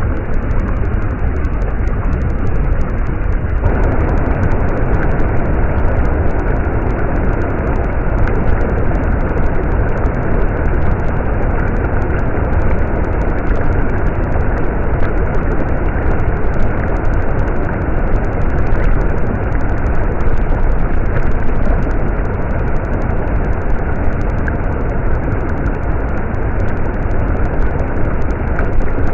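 Stream water rushing and flowing, steady and loud; the rushing grows fuller about three and a half seconds in.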